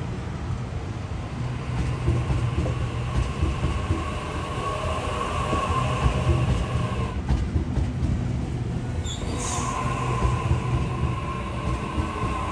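Sydney Trains B-set (Waratah Series 2) electric train arriving: a steady rumble of wheels on rails under a steady whine. Brief high squeals come about nine seconds in.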